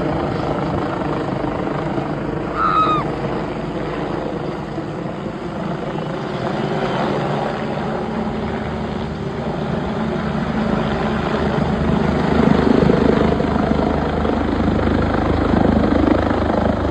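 Helicopter flying low overhead while manoeuvring to land: steady turbine whine and rotor noise, growing louder in the second half with a low, regular rotor beat.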